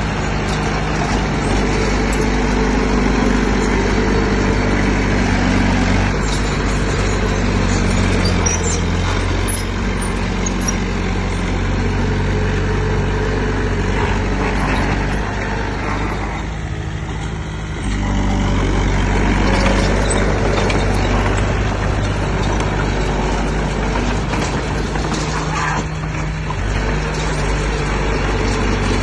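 Heavy diesel engine of earthmoving machinery running under load, with its pitch and level shifting. It eases off a little past halfway, then comes back up sharply.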